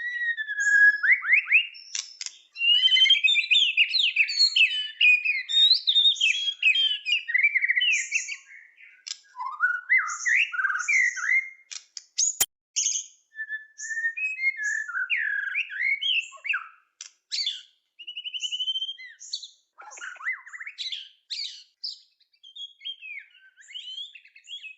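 White-rumped shama (murai batu) singing a long, varied song of rapid whistles, trills and chattering phrases, with a single sharp click about halfway through.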